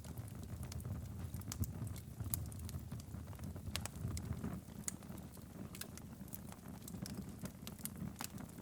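Wood fire in a fireplace crackling, with irregular sharp pops over a low, steady rumble of the flames.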